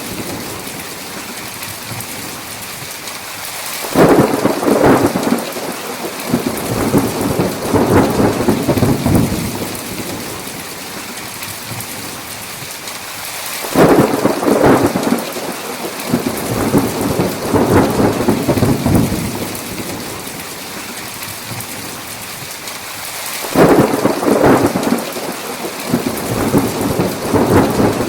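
Thunderstorm with steady heavy rain and three peals of thunder about ten seconds apart. Each starts suddenly and rolls on for several seconds before fading back into the rain.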